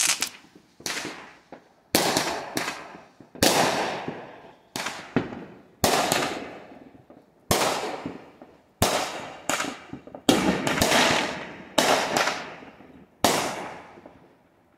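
Aerial fireworks bursting overhead: a dozen or so sharp bangs about a second apart, each trailing off in a fading tail.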